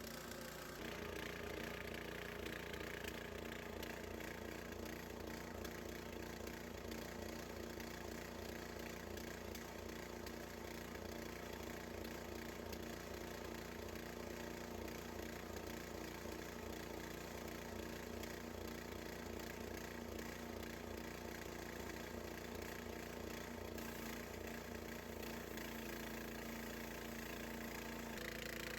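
Small gas engine of a Harbor Freight portable bandsaw sawmill running steadily while the blade saws a slab from a large cedar log.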